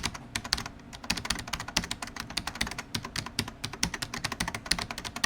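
Rapid, irregular computer-keyboard typing: a dense run of short key clicks, several a second, throughout.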